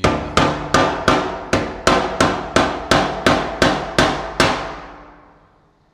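Hammer blows on the aluminum fuel tank, about thirteen quick strikes at roughly three a second, each ringing on; the ring dies away about a second after the last blow. The tank's end is being worked back into place.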